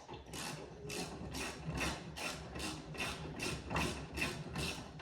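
A hand tool working in quick, evenly spaced strokes, a little under three a second, each a short scraping rasp with a faint ring.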